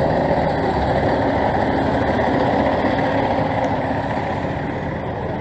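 Street traffic: a motor vehicle's engine running close by, a steady rumble that eases slightly near the end.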